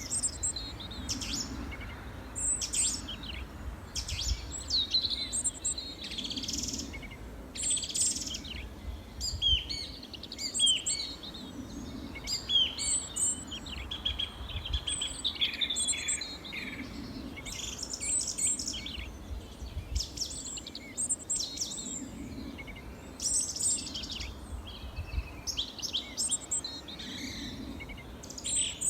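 Small songbirds chirping and singing, many short high chirps and quick trills overlapping, over a low background rumble.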